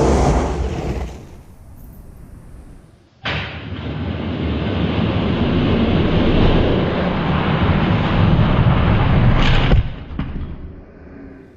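Die-cast toy monster trucks rolling and rattling down a plastic drag-strip track, a steady rumble. One run fades out in the first second and a half. A second starts suddenly about three seconds in, runs for about six seconds, and dies away near the end.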